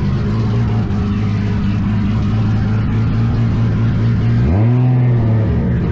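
Car engine running at a steady pitch, with one rev rising and settling about four and a half seconds in.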